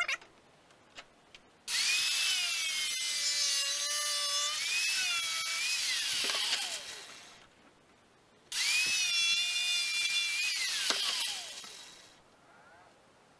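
Angle grinder with a tile-cutting blade cutting into a plastic water filter housing, in two runs of a few seconds each. Each run starts suddenly, its whine wavers under load, and the pitch falls away as the blade spins down.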